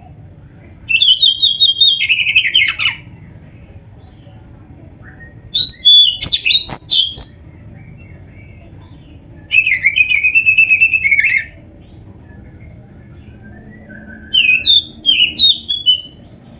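Oriental magpie-robin (kacer) singing in four separate rapid phrases of quick, sweeping whistled notes, each lasting about one and a half to two seconds with short pauses between.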